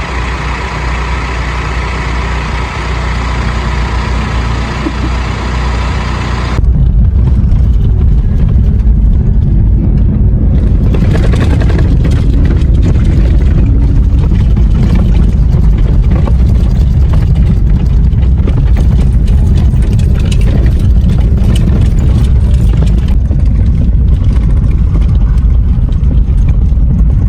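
Motor vehicle running, with a steady low engine and road rumble that jumps louder about seven seconds in.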